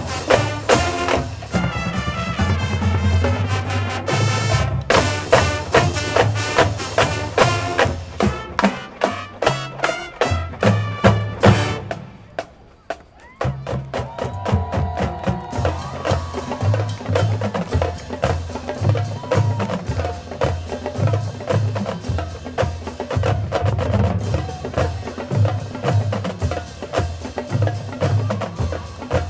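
Marching band playing a hip-hop arrangement, with the drumline driving a fast, steady beat under the horns. The band cuts out briefly about twelve seconds in, then comes back in.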